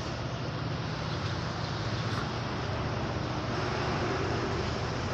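Steady background road-traffic noise: a low hum with a rushing hiss, slowly getting louder.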